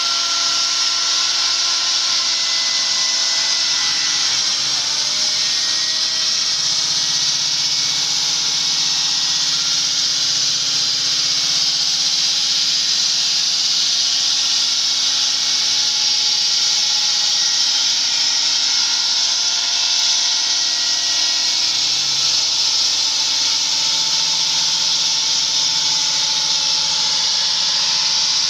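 Diamond-wheel concrete cutter running steadily while cutting through concrete: a loud, even grinding hiss with faint, slowly drifting whine tones underneath.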